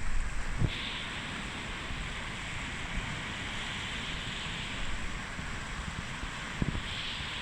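Sea surf washing onto the shore: a hissing swell of a wave about a second in that dies away after about four seconds, and another near the end. Wind buffets the microphone now and then.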